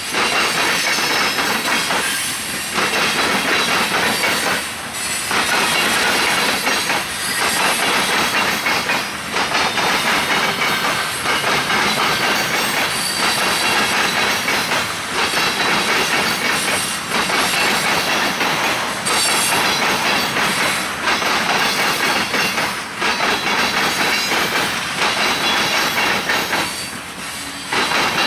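Freight train cars rolling past, wheels clattering on the rails in a continuous rumble that dips briefly about every two seconds.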